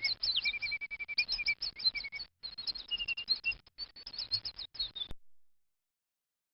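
Young bird chirping in a rapid run of high chirps mixed with short held whistles, some notes sliding down in pitch; the sound cuts off suddenly about five seconds in.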